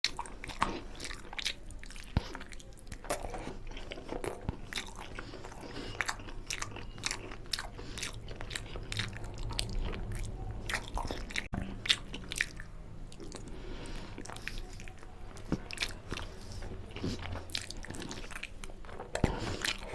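Close-miked eating of mutton nalli curry with rice: chewing and biting, with crunching and many irregular sharp clicks.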